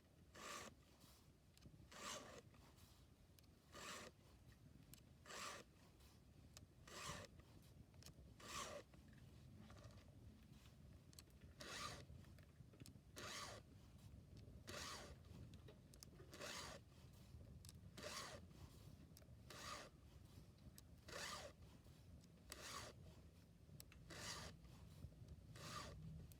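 Hand file strokes sharpening a chainsaw chain: a faint rasping stroke about every second and a half, with a short pause near the middle.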